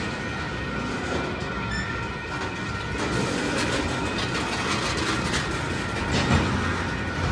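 Union Pacific freight train's tank cars rolling slowly past on steel wheels: a steady low rumble with scattered clicks from the wheels over the rail, most of them in the middle of the stretch, and a faint thin high whine.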